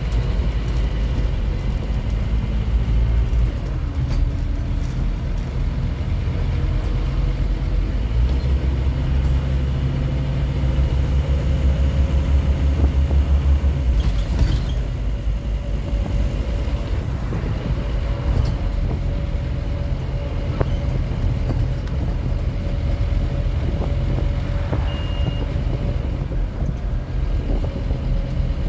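Scania N230UD OmniCity double-decker bus's five-cylinder diesel running under way, a steady low drone that grows stronger for several seconds as the bus pulls under power, then eases off. A short clatter comes about halfway through, and two short high beeps come near the end.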